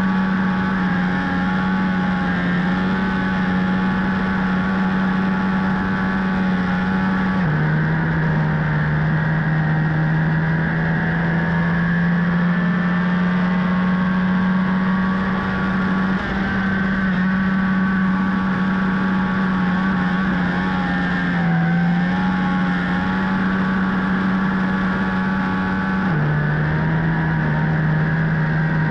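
Onboard sound of a flat-track racing motorcycle engine running hard at high speed, with a steady rush of noise over it. The engine note holds steady, dropping a step in pitch about a quarter of the way in and again near the end.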